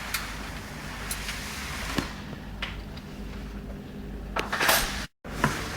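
Small metal engine parts and tools being handled on a workbench: a few light clicks and a brief scrape over a steady background hum.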